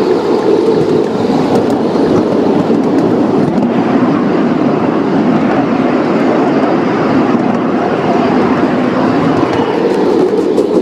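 Model train running along the track, a steady rumble with faint clicks.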